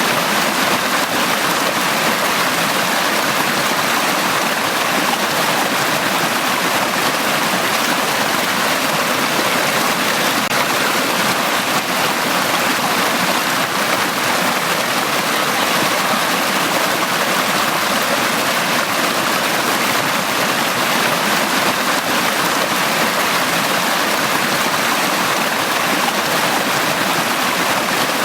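A valley stream flowing, with steady, unbroken rushing water.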